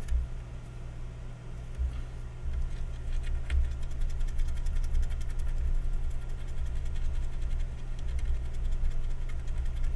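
A steady low hum from running electronics bench equipment, with a faint unsteady rumble underneath.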